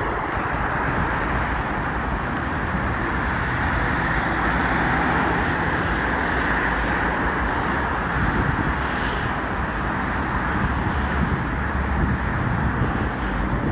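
Steady running noise of a vehicle, a rushing hiss over a low rumble, growing a little louder about four seconds in.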